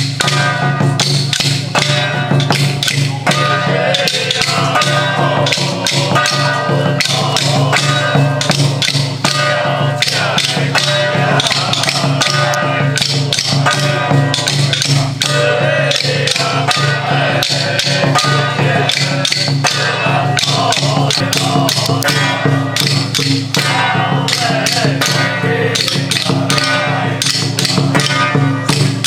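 Loud ritual music dominated by fast percussion, with rapid wood-block and drum strokes over a steady low drone, playing without pause.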